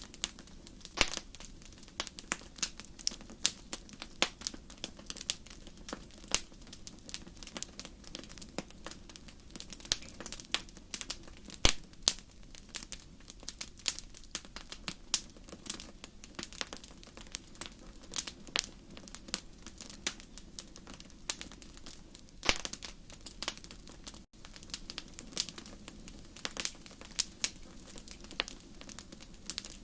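Wood fire burning in a fireplace: irregular crackles and sharp pops, a few much louder than the rest, over a low steady background.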